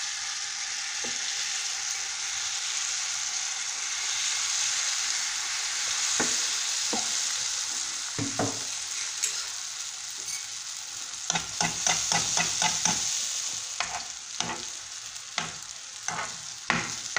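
Zlabia batter frying in a shallow layer of hot oil in a pan, a steady sizzle. From about eleven seconds in, sharp ticks and pops come through the sizzle.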